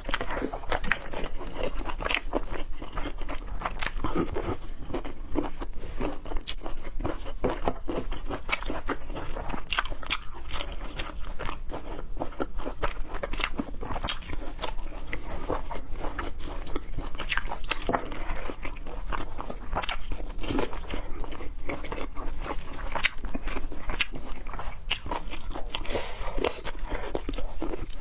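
Close-miked eating of seafood: steady biting, crunching and chewing with many irregular wet clicks.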